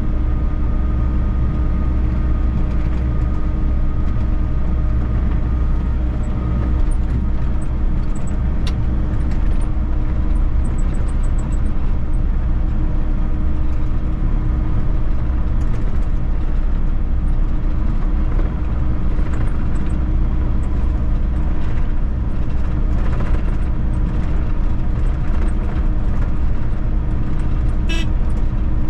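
Volvo EC60E excavator's diesel engine running steadily under work with a constant drone, levelling stone dust. A few short clicks and knocks, one near the end.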